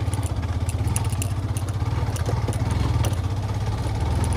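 Yamaha FZ V2 motorcycle's single-cylinder engine running steadily at low revs, with scattered light clicks and rattles.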